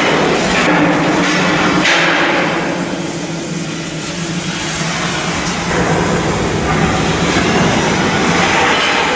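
Steady, loud industrial machinery noise of shipyard work: a continuous hiss over a low hum, easing a little about three seconds in.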